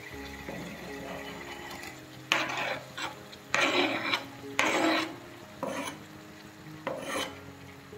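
Chicken frying in oil in a wok, with short bursts of sizzling and scraping as chopped tomatoes are tipped off a board into the hot pan. There are about six bursts, starting about two seconds in.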